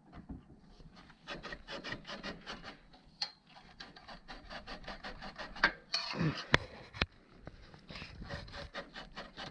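Something being forced through a tight fitting by hand, rubbing and scraping in quick repeated strokes, about four or five a second, followed by a few sharp clicks about six and a half and seven seconds in.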